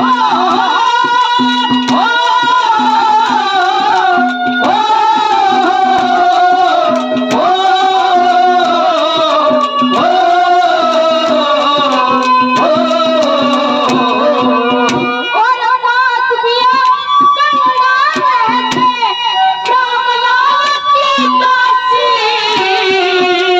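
Haryanvi ragni folk music: a harmonium playing a fast, high melody with hand-drum beats underneath and a high singing voice.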